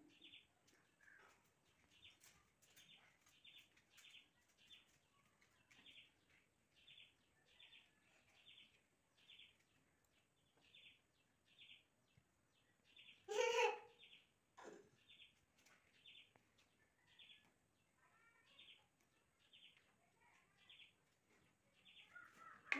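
Faint, short, high chirps repeating a little more than once a second, typical of a small bird calling, with one brief louder noise about halfway through.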